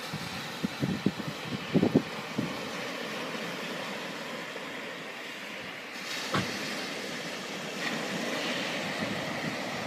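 Sea waves washing against a groyne, a steady rush of surf. Wind buffets the microphone in low thumps during the first couple of seconds, and a single thud comes about six seconds in.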